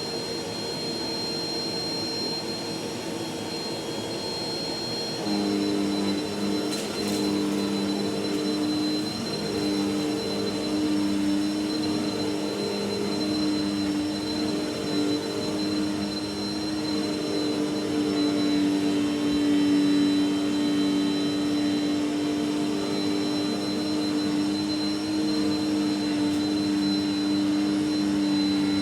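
Vacuum cleaner running continuously with a steady high whine. About five seconds in its sound gets louder and a lower hum joins, then it carries on steadily.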